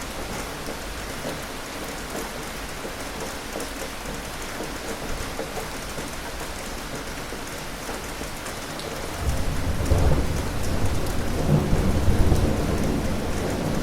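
Steady rain falling, with scattered drop patter. About nine seconds in, a low rumble of thunder starts and grows louder, rolling on to the end.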